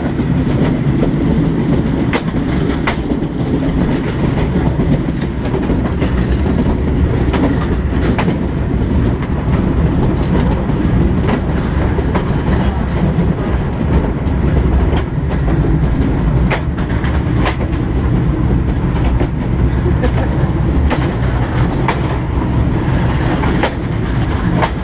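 Old train running along the track: a steady low rumble, with the wheels clicking over rail joints at irregular intervals.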